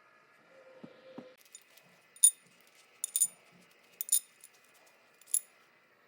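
Small metal parts clinking: about six sharp, ringing clinks, some in quick pairs, after a couple of soft knocks.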